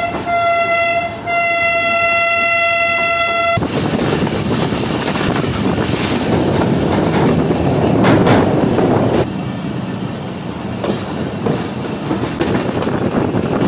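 Locomotive horn sounding one steady note, broken briefly just over a second in and stopping about three and a half seconds in. After that comes the rumble of a train running on the rails, with scattered clacks of the wheels over the track, heard from a coach doorway.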